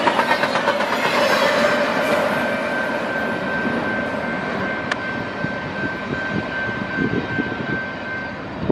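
A train's cars rolling past, with a steady high-pitched wheel squeal from about two seconds in until just before the end. The sound slowly dies away as the train moves off, with one sharp click about halfway.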